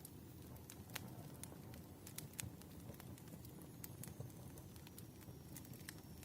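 Wood fire crackling faintly, with irregular sharp pops and snaps over a low, steady rumble.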